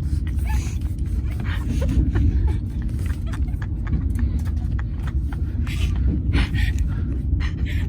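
Steady low rumble of a moving vehicle heard from inside the cabin, with faint clicks and distant voices.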